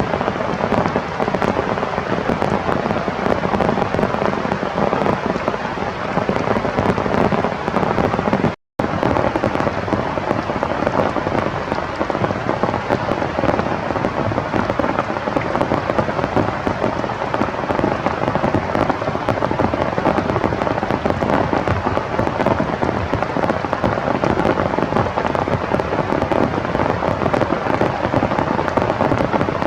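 Heavy rain falling: a steady dense hiss of drops with a fine crackle of impacts, cut off for a moment about nine seconds in.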